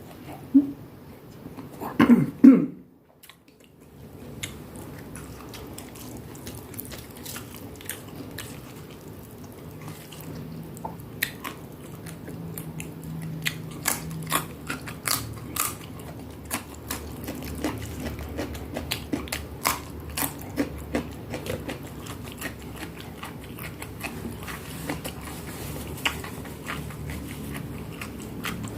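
Close-miked chewing and crunching of a mouthful of food, with many small crisp crackles. A louder burst of bites comes about two seconds in, followed by a brief gap, before the chewing continues.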